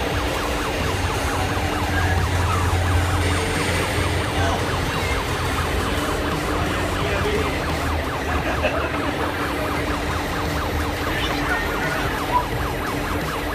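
Engine sound from a scale RC truck's sound module, running steadily with a fast even throb and a steady tone on top.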